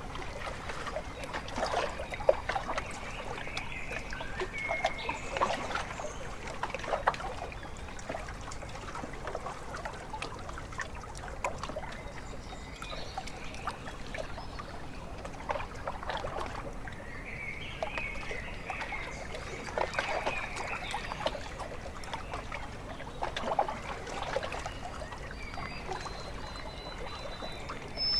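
Small lake waves lapping against the shore in irregular splashy clusters every few seconds, with a few short bird calls.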